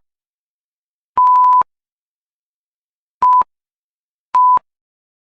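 Electronic beep tone, one steady pitch, sounding three times: a longer beep about a second in, then two short ones, with dead silence between.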